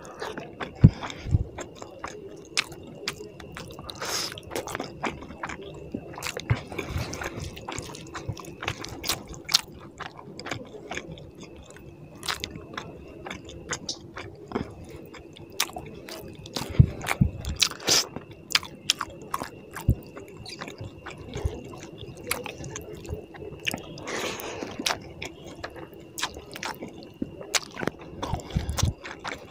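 Close-miked eating of tilapia fish curry with rice by hand: wet chewing and lip smacks, with squishing as fingers work the curry-soaked rice. Many short irregular clicks and smacks run throughout.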